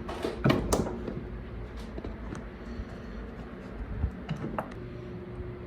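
Clicks, knocks and scrapes of metal parts being handled as a washing machine's wash motor is pulled out of its mounting, with a faint steady hum underneath.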